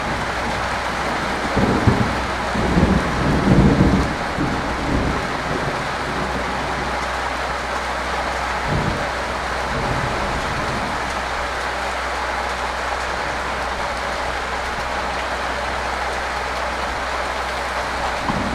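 Steady rain falling, an even hiss throughout. A few irregular low rumbles stand out in the first few seconds, with fainter ones near the middle.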